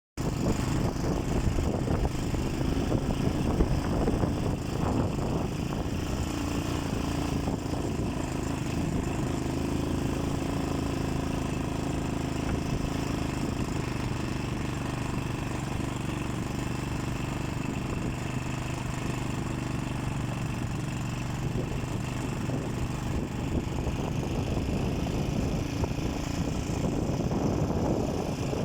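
Motorcycle engine running at a fairly steady speed while riding, with a steady rush of noise around it.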